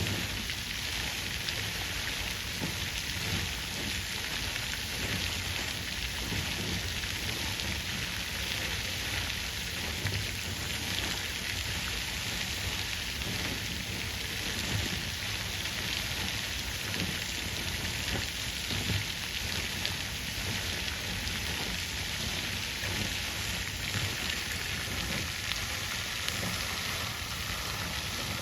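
Water fountain splashing and trickling steadily, a dense even patter of falling water.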